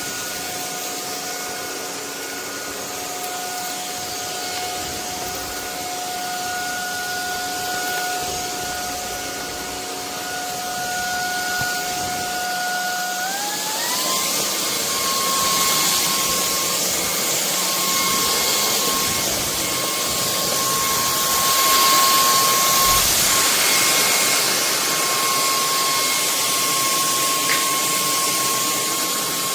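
Bulelink 580 W cordless stick vacuum running, a steady motor whine over rushing air. About halfway through, the whine steps up to a higher pitch and the rush of air grows louder as the motor speeds up.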